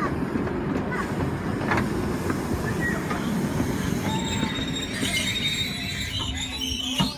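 Miniature railway carriages rumbling along the track, with the wheels squealing high and shrill over the last few seconds as the train slows to a halt. The rumble and squeal cut off abruptly near the end as it stops.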